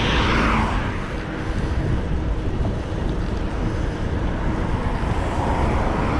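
Wind buffeting the action camera's microphone on a moving electric bike, a steady low rumble with road noise. A brighter swell of noise comes in the first second.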